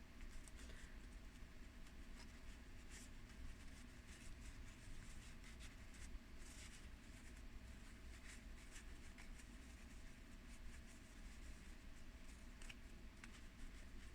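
Faint rustling and a few soft clicks of tarot cards being handled, over a low steady room hum.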